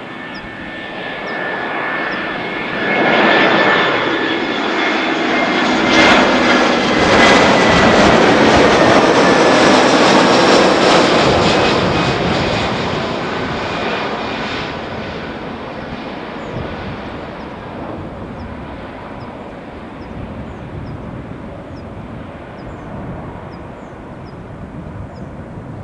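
Airbus A320 jet airliner passing close on its landing approach: the engine noise swells, peaks for several seconds, then fades away. A whine in it falls slowly in pitch as the aircraft goes by.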